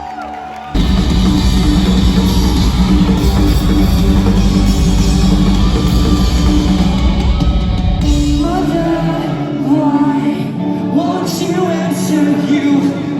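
Live rock band playing loudly, with drums, bass and guitars crashing in suddenly about a second in. Around two-thirds of the way through the drums and bass drop out, leaving guitar and singing.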